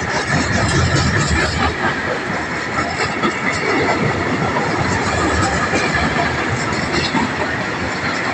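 Freight train of open-top wagons passing close by: steady rumble and rattle of the wagons and wheels on the rails, with scattered clicks and a faint high ringing.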